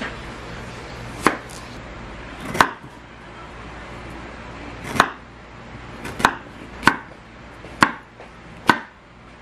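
A series of about seven sharp knocks at uneven intervals, a second or so apart, with a faint steady hum underneath.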